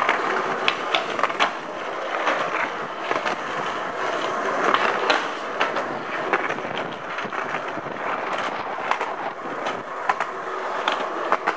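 Skateboard wheels rolling steadily over pavement, with scattered sharp clicks and knocks as the board goes over bumps and cracks.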